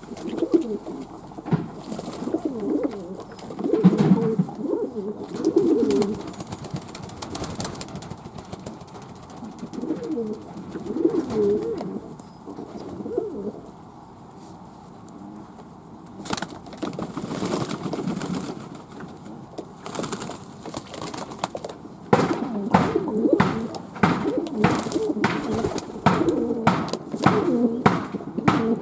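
Fantail doves cooing, low wavering coos overlapping one another. In the last several seconds a run of sharp taps or clicks, about two a second, joins the cooing.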